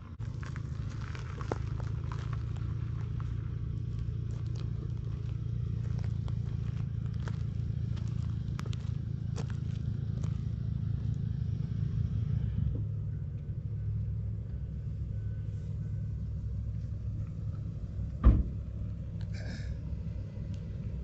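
Infiniti G37X's 3.7-litre V6 idling steadily, with small clicks and handling noises over it. A short run of faint beeps comes about two-thirds of the way in, and a single loud knock follows a few seconds before the end.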